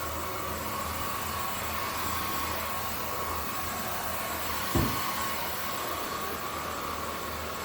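Zoker A10 Pro cordless stick vacuum running steadily on high power, a steady hiss with a whine. A single short knock about two-thirds of the way through.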